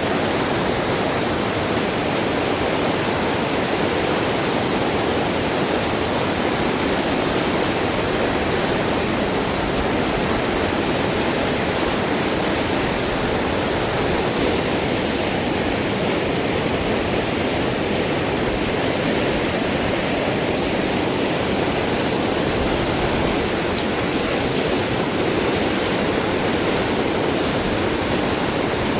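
Fast-flowing, swollen river water rushing steadily.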